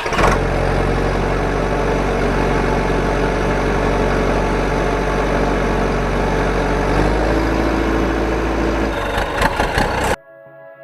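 Tractor engine idling steadily with a low, even running sound, its pitch shifting slightly about seven seconds in; it cuts off suddenly near the end.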